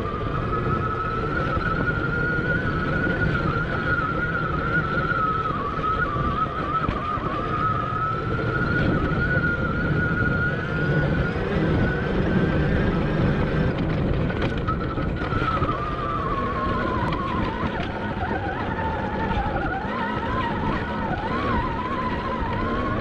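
Admitjet Armor electric dirt bike's motor whining as it rides, its pitch wavering with speed and dipping low for a few seconds in the second half before climbing back. It runs over heavy wind buffeting on the microphone and a low rumble from the bike on the trail.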